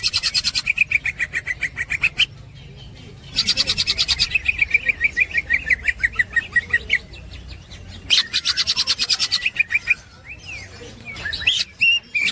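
Green leafbird (cucak ijo) singing its 'ngekek' chatter: runs of fast repeated high notes, about a dozen a second, three long runs broken by short pauses and a fourth starting near the end.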